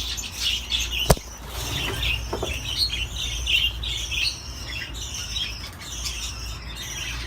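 Budgerigars chattering and warbling in a continuous stream of quick chirps. A single sharp click about a second in.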